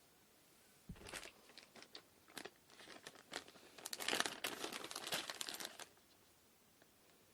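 Crinkly material, such as wrapping or packing, being crumpled and handled: irregular crackles starting about a second in, growing denser and louder for the last two seconds before stopping abruptly.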